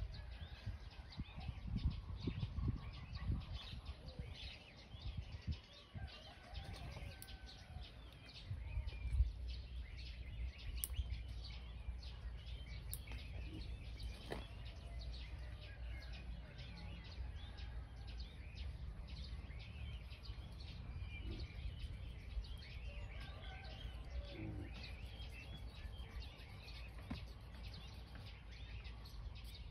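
Small birds chirping steadily in the background, with a low rumbling noise that is strongest in the first few seconds and a few faint clicks.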